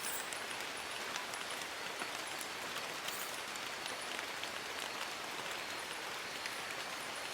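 Steady rain falling on forest leaves: an even hiss dotted with the ticks of individual drops.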